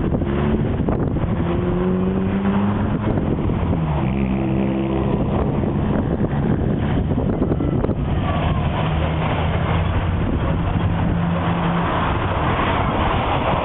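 Car engine and road noise, with a steady engine hum that comes and goes and shifts in pitch a few times.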